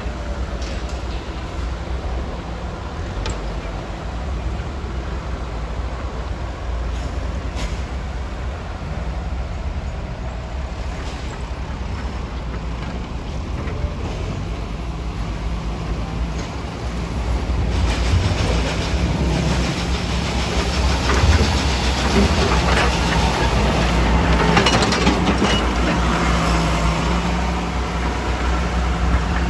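Heavy diesel quarry machinery running with a steady low drone. About eighteen seconds in it grows louder and busier, with added clatter and grinding.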